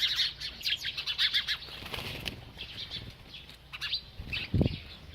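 A small bird chirping in quick, short high notes, busiest in the first half, with a low thump about four and a half seconds in.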